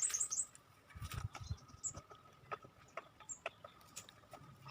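A few short, high bird chirps at the start, over scattered clicks and knocks of things being handled, with a few low thuds about a second in and a faint steady high tone.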